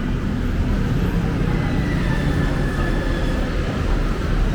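Steady low rumble of passing heavy vehicles, with a faint high whine that sinks slightly in pitch about two seconds in.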